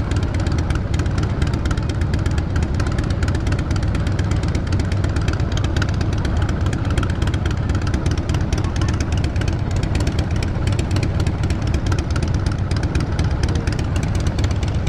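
Triumph 900 motorcycle engine running steadily under way at a gentle cruising speed, with road noise and no sharp changes in revs.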